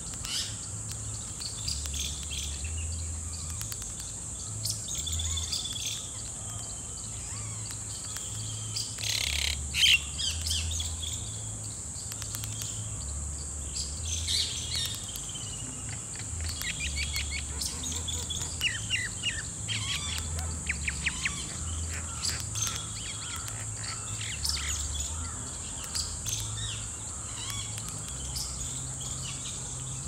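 Small birds chirping and twittering in short calls and quick trills, with one louder, sharper call about ten seconds in. A steady high hiss runs underneath.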